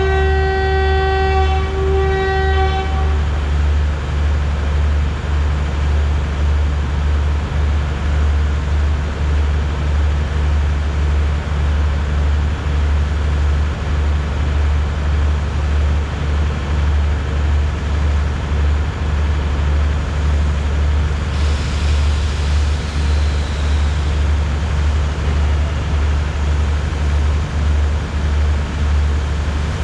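A locomotive sounds two blasts, the first about two seconds long and the second shorter, over a steady low rumble that runs throughout. A hiss rises about 21 seconds in.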